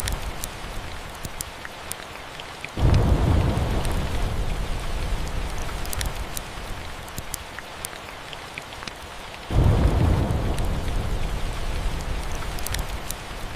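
Steady rain with two rolls of thunder, one about three seconds in and one near ten seconds in. Each starts suddenly and fades over several seconds. Faint scattered crackles of a log fire run throughout.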